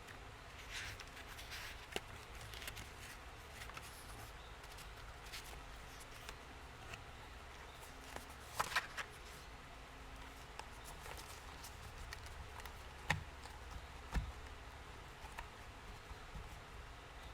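Journal-decorating materials handled at close range: scattered soft rustles of paper and small taps and clicks, the loudest a quick double click about halfway through and two knocks a little later, over a steady low background hum.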